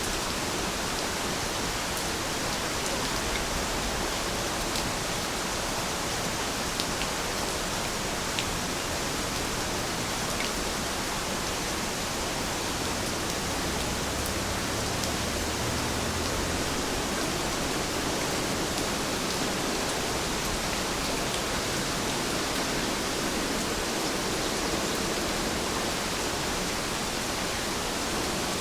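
Heavy rain falling steadily, an even hiss with a few sharp drop ticks here and there.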